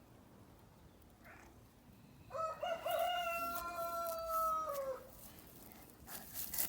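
One long, drawn-out animal call lasting about two and a half seconds. It holds a steady pitch, then drops at the end.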